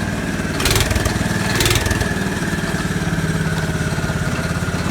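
Tractor engine running steadily, with two brief bursts of hiss about a second apart early on.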